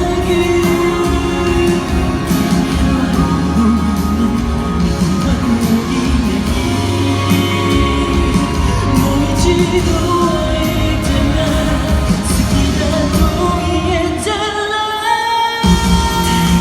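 A male singer performing a pop song live over a backing track. The bass and drums drop out for a moment near the end, then come back in.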